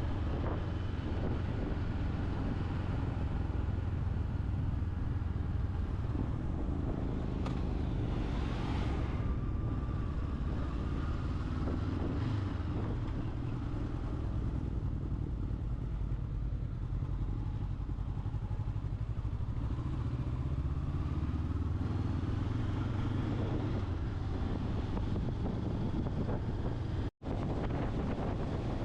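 Motorcycle engine running steadily while being ridden, with rushing noise over it and some rising and falling changes in pitch. The sound cuts out for a moment near the end.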